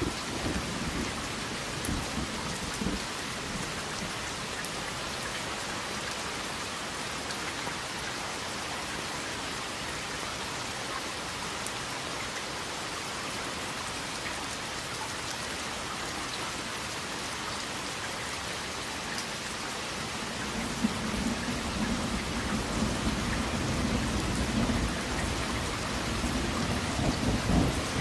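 Steady rain hissing down with raindrops pattering on surfaces. Low thunder rumbles in the first couple of seconds, then rolls in again about two-thirds through, swelling toward the end.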